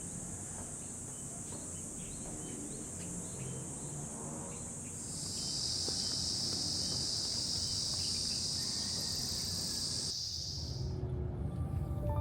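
Insects droning steadily in a high, even buzz; about five seconds in a second, slightly lower-pitched drone joins, and the first stops shortly before the second fades out near the end.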